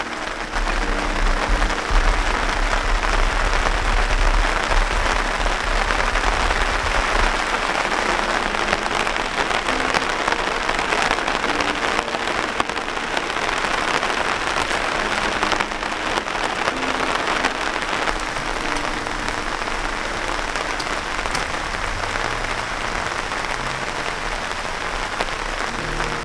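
Heavy rain falling steadily on tent and tarp fabric, a dense, even hiss of downpour.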